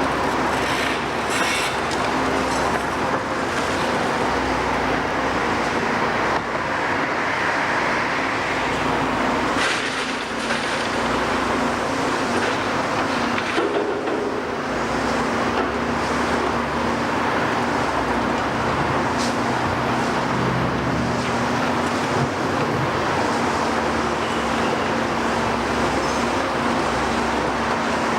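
Heavy diesel construction machinery running steadily with a constant engine hum, and a few short knocks and scrapes at intervals.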